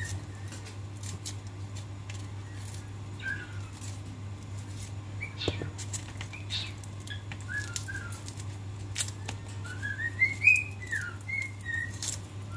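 Pet bird whistling short chirping notes every second or two, then a longer warbling run near the end, over a steady low hum. Faint clicks of a small knife cutting shallots.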